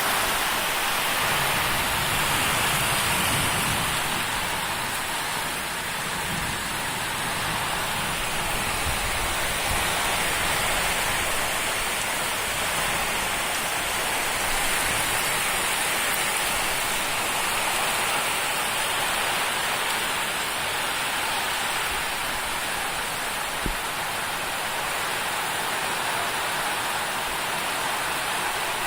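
Heavy cyclone rain falling steadily on surfaces, an even hiss of rain with one small knock near the end.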